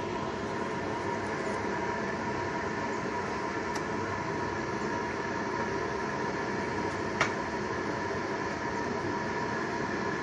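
Steady mechanical droning background noise with faint constant hum tones, and one sharp click about seven seconds in.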